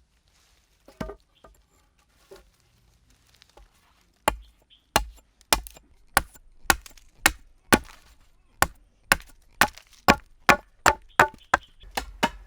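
Wood being chopped: a few scattered strikes, then from about four seconds in a steady run of sharp blows, roughly two a second.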